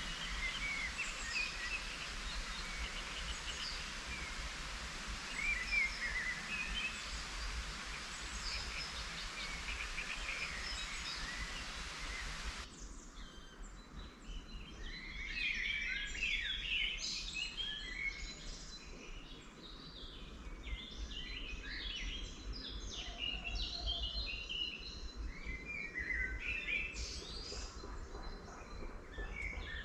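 Steady hiss of light rain with a few birds calling. About 13 seconds in, the sound cuts to a drier scene, and a busy chorus of small songbirds chirps and sings with many overlapping short calls.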